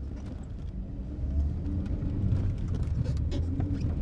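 Car engine running and revving up, heard from inside the cabin; its rumble grows louder over the first second or so.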